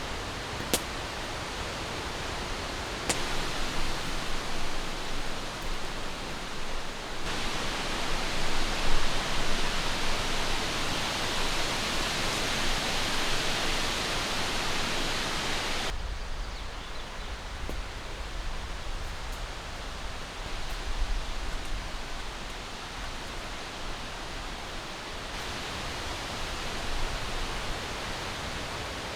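Strong wind rushing steadily through the forest, with low rumble from gusts on the microphone in the later part. The rushing changes abruptly in character about seven and sixteen seconds in, and a couple of sharp clicks sound near the start.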